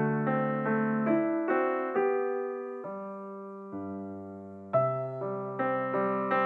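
Background piano music: single notes played one after another, growing soft and slow in the middle, then picking up again with a louder note almost five seconds in.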